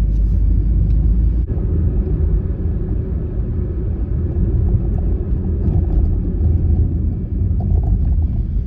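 Steady road and engine rumble inside the cabin of a Honda Freed minivan while driving, with a single sharp click about a second and a half in.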